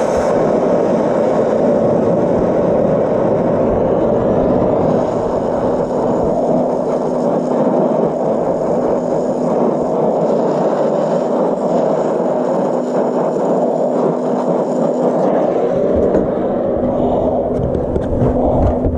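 Electric welding arc crackling and hissing steadily while a seam is welded, over a constant low hum.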